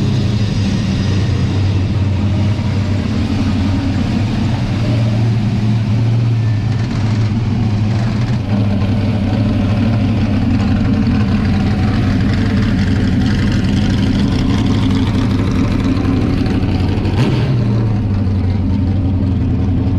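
V8 muscle car engine running loud at a fairly steady pitch, with a brief sharp knock about seventeen seconds in.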